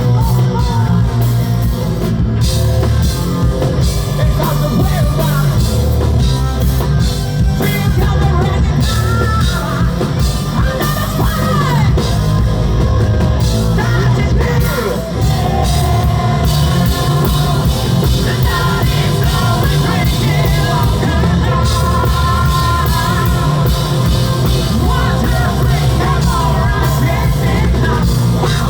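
Live rock band playing loud, with electric bass, drum kit and distorted guitars under a male lead vocal singing and shouting.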